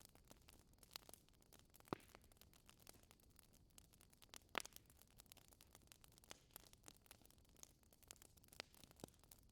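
Fire crackling: a quick scatter of small snaps over a faint hiss, with two louder pops, one about two seconds in and one about halfway through.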